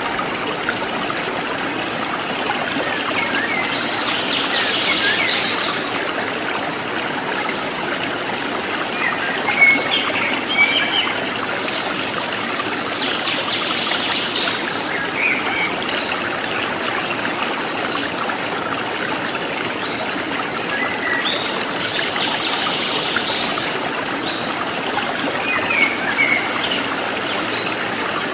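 Forest stream water trickling steadily, with wild birds chirping in short bursts every few seconds.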